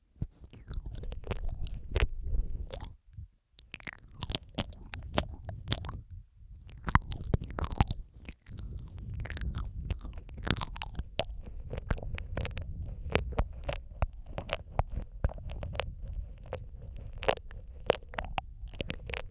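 Close-miked wet mouth sounds for ASMR, layered: many irregular wet clicks and smacks over a steady low rumble, with brief pauses about three, six and eight seconds in.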